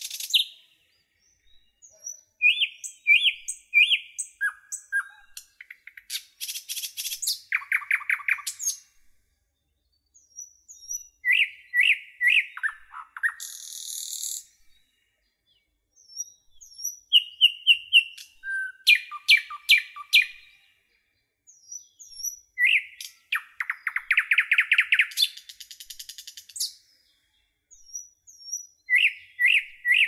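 Songbirds singing in short phrases of chirps, whistled notes and rapid trills, each phrase a second or two long and separated by silent pauses.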